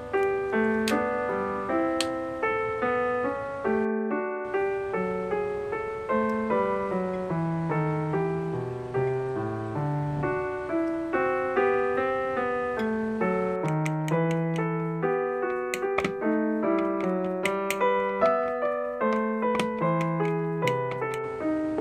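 Background piano music: a gentle melody of evenly paced notes, with a brief break about four seconds in.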